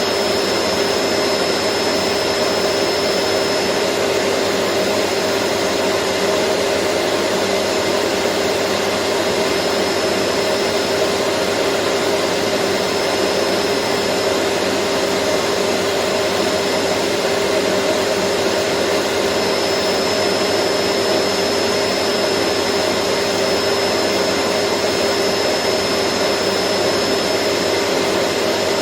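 Vacuum cleaner motor running steadily, a constant rushing hiss with a steady hum and a faint high whine.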